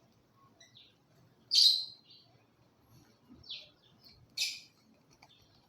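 Pet parrots giving short, shrill chirps: three louder calls about a second apart, with softer chirps in between.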